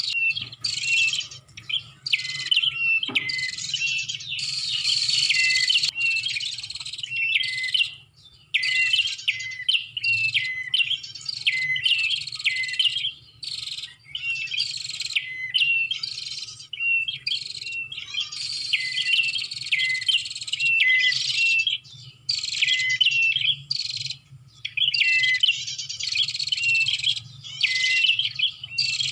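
Prenjak (prinia) lure calls: a fast, continuous series of high, sharp chirping phrases, one after another with only brief gaps.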